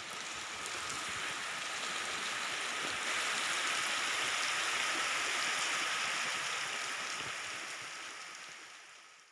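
A steady rush of water noise that swells over the first few seconds, holds, then fades away near the end.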